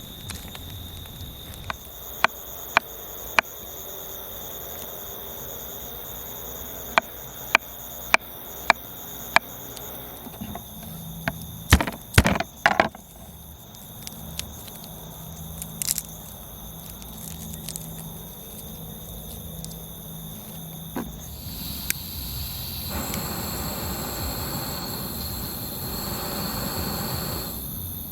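Steady high-pitched insect chirring with scattered sharp clicks and a quick cluster of louder knocks about twelve seconds in; a soft rushing noise swells near the end.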